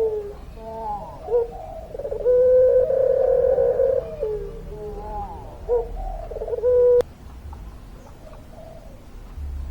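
Puter pelung dove cooing: broken, warbling notes and two long held coos, the longer one lasting well over a second. About seven seconds in a coo ends with a sharp click, and the rest is quieter.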